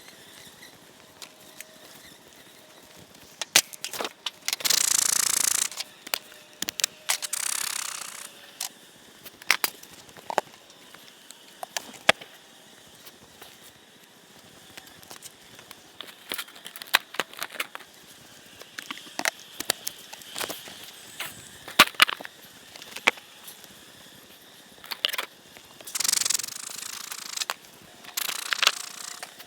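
Wooden beehive boxes and frames being knocked and pried with a metal hive tool: scattered sharp clicks and knocks. Four short, loud rushes of air break in, two near the start and two near the end.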